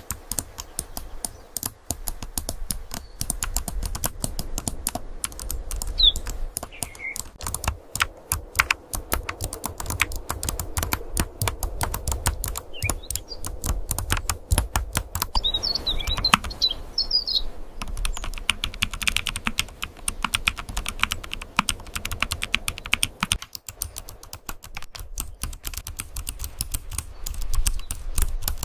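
Keyboard typing: a dense, fast run of key clicks throughout, with a few short high chirps about six seconds in and again around sixteen seconds in.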